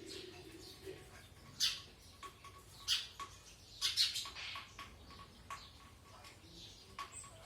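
A distressed small bird giving short, sharp chirps, about five of them spaced irregularly, the loudest pair a little past the middle.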